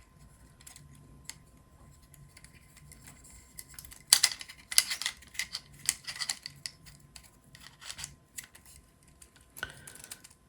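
Light clicks and knocks of 3D-printed plastic robot chassis parts being handled and pressed together as a plate is fitted over the motor tabs, with a quick run of sharper clicks about four seconds in.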